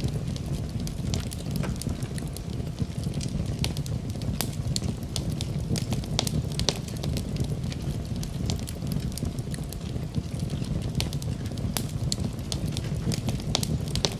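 Wood fire burning in a fireplace: a steady low rumble of the flames with frequent sharp, irregular crackles and pops of the burning wood.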